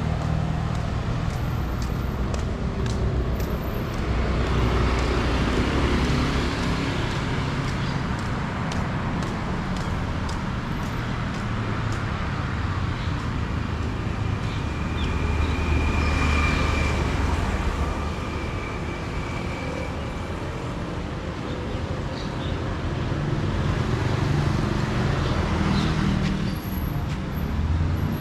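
Street traffic: road vehicles passing, a steady rumble of engines and tyres that swells and fades as each one goes by.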